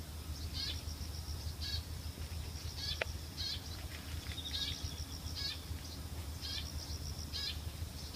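A small bird singing a high-pitched phrase over and over, a quick run of short notes followed by a brief chirp, repeating about once a second.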